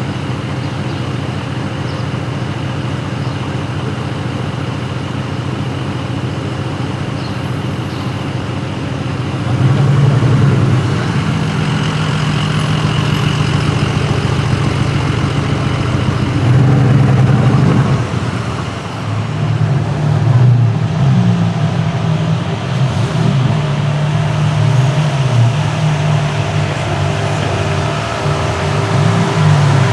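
Car engines running in city street traffic. A deep engine sound gets louder about ten seconds in, dips briefly, then holds louder again from about twenty seconds on.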